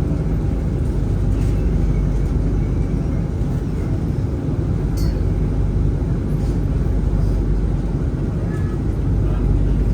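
Dubai Tram running, a steady low rumble with no change in level, and a brief high click about five seconds in.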